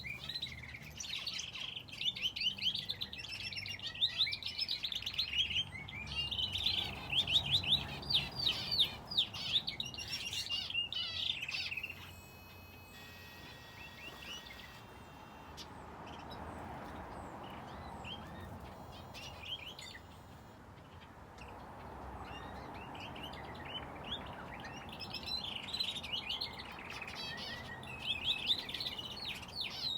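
Aviary finches and a canary chirping and calling in quick, overlapping bursts. They are busy for the first dozen seconds, fall quieter through the middle, and pick up again near the end.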